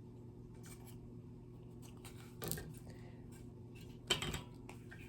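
Two brief, faint rustles of dried reindeer moss being handled and pressed onto a wooden birdhouse, about halfway through and again near the end, over a steady low hum.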